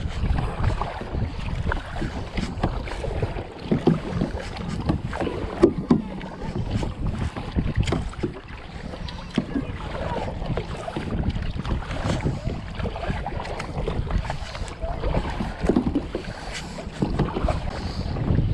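Wind buffeting the microphone while water laps against a sit-on-top kayak's plastic hull, with irregular knocks and splashes.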